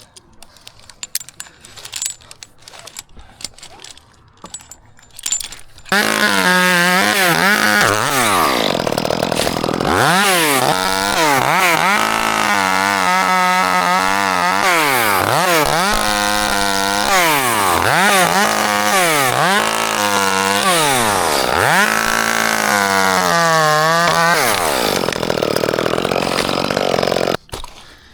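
Gas chainsaw coming in suddenly about six seconds in and running hard, its pitch dropping and climbing again and again as the throttle is eased and squeezed, then stopping abruptly about a second before the end. Light clicks and knocks come before it.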